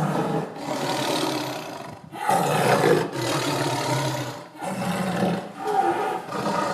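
A big cat roaring: several long roars one after another, with short breaks between them.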